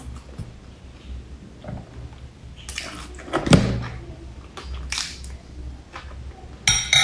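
Close-miked eating: chewing and biting into a soft bun topped with meat floss and seaweed, with a few louder wet mouth noises, the loudest about three and a half seconds in.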